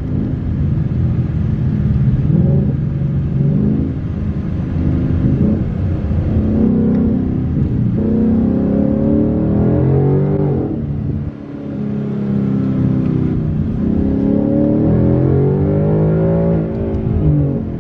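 Car engine accelerating through the gears while driving, its pitch climbing and dropping back at each shift, with a short lull about eleven seconds in.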